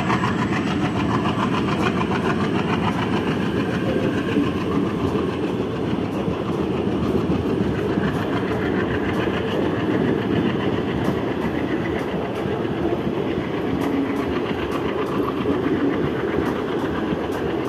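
Passenger train coaches of the departing Sri Ganganagar–Haridwar Intercity Express rolling past, with a steady clatter of wheels on the rails.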